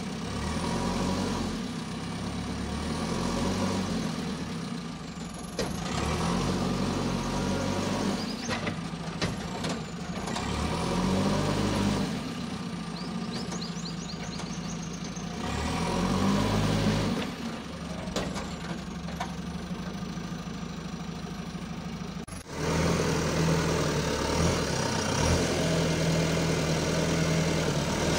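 Four-cylinder diesel engine of a JCB 3CX backhoe loader running, rising and falling in revs several times as it is worked, with a few sharp knocks. About three quarters of the way through the sound changes abruptly to a steadier engine note.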